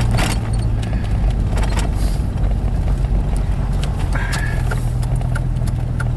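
Jeep driving on a snowy road, heard from inside the cabin: a steady low drone of engine and tyres, with scattered light clicks and a brief high squeak about four seconds in.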